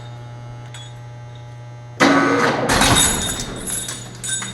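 Forklift engine running at a steady low hum, then suddenly revved hard about two seconds in with loud mechanical noise that fades over the next two seconds, as the forklift takes up the load to pull the engine out of a Dodge Dakota.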